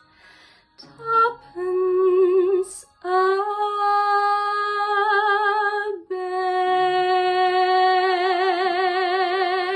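A woman singing solo over a soft karaoke backing track: two short notes, then from about three seconds in two long held notes with wide vibrato, the last one sustained to the end of the phrase.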